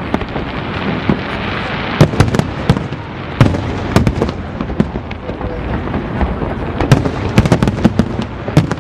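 Aerial firework shells bursting in a large display: sharp bangs at irregular intervals, several a second at times, over a continuous background din.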